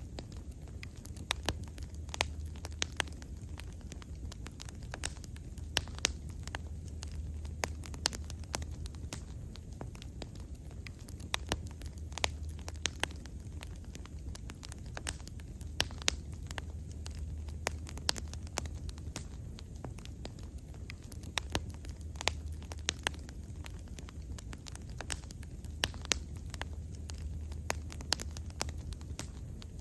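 A wood bonfire burning, with frequent sharp crackles and pops at irregular intervals over a low steady rumble of the flames.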